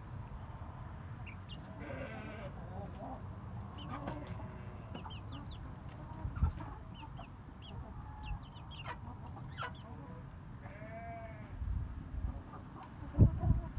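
Farmyard chickens clucking, with many short high chirps scattered throughout and a longer call about eleven seconds in, over a low rumble. A loud thump comes near the end.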